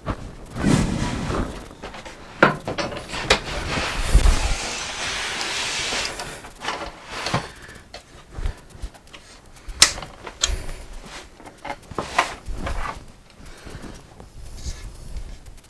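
Woodwork handling sounds from a wooden drawer front: scattered knocks and clicks, with a few seconds of sliding scrape about four seconds in.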